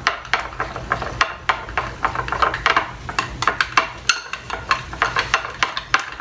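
A spoon stirring white glue and food coloring in a bowl, a fast, uneven run of scrapes and clicks against the bowl.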